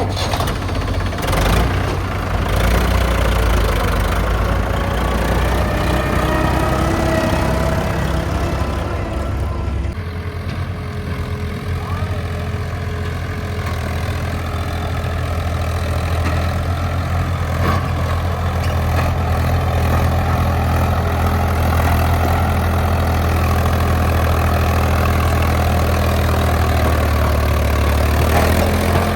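Diesel engine of heavy machinery running steadily, its note changing about ten seconds in.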